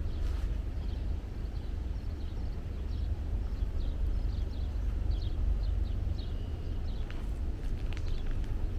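Footsteps of a walker on a forest trail over a steady low rumble. Small birds chirp in short, repeated notes, mostly in the middle of the stretch.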